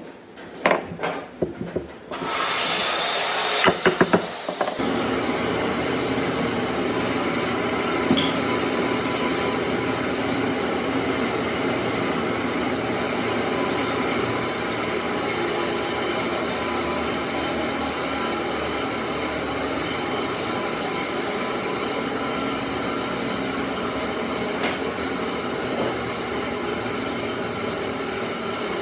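A few knocks on wood, then a power tool starts about two seconds in and runs steadily with a constant hum and noise.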